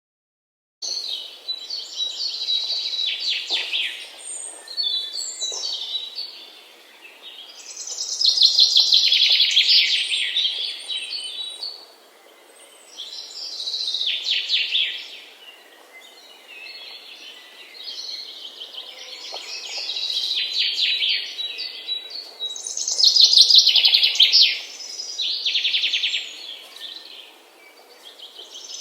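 Songbirds chirping and singing in repeated phrases of rapid high trills, a new phrase every two to three seconds, over a faint steady background hiss.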